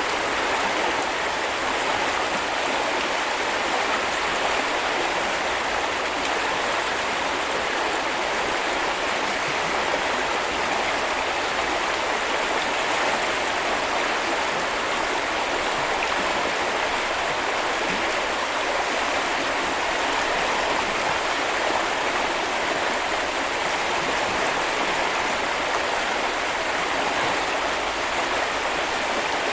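Small river or stream flowing steadily over stones, a continuous even rush of water.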